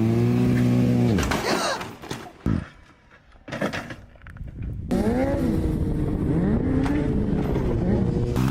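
Motorcycle engine running at a steady pitch, dropping away after about a second. It returns about five seconds in with its pitch rising and falling.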